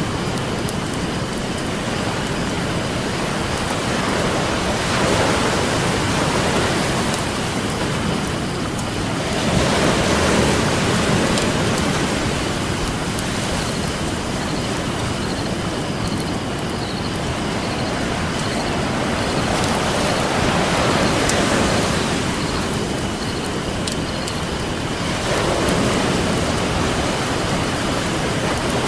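Ocean surf washing ashore in slow swells, one every four to six seconds, over a steady rush of water. A wood campfire crackles faintly now and then beneath it.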